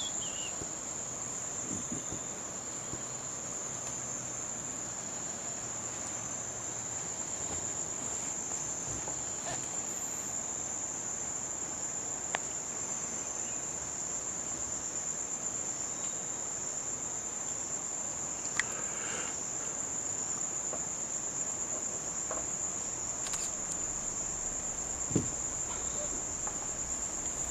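A continuous high-pitched insect chorus of crickets, katydids or cicadas, droning at one steady pitch, with a few faint knocks.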